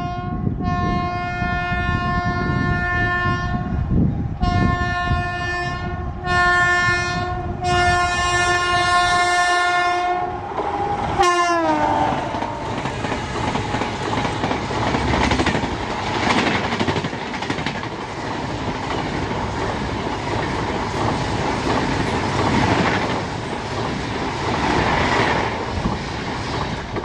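Electric locomotive's air horn sounding in about five long blasts as the express approaches, the pitch dropping sharply as it passes about 11 seconds in. Then the passenger coaches run past close by with a steady rumble and wheel clatter over the rail joints.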